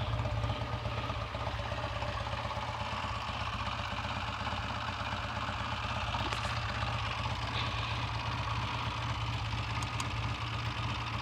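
Triumph T140V's 750 cc parallel-twin engine idling steadily, running evenly and sounding healthy.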